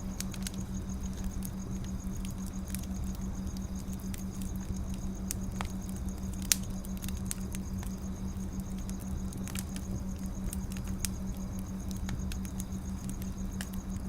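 Wood fire crackling: irregular small snaps and pops over a steady low hum, with one louder pop about six and a half seconds in.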